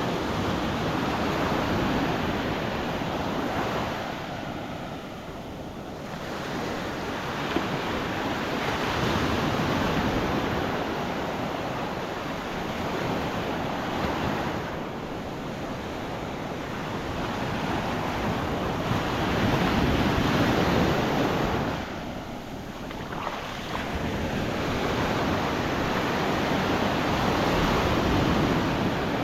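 Gulf of Mexico surf breaking and washing up a sand beach, the rush swelling and easing every several seconds, with wind buffeting the microphone.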